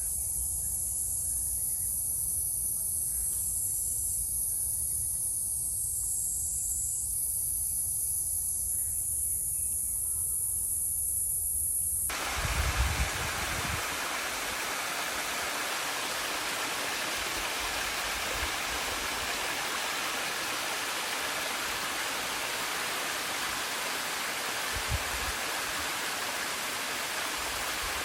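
Water rushing steadily, like a stream or small waterfall, starting suddenly about twelve seconds in, with a few low bumps soon after. Before the change there is a steady very high-pitched hiss over a low rumble.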